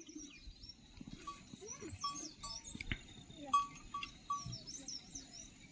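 Farm animals calling, with high bird chirps throughout.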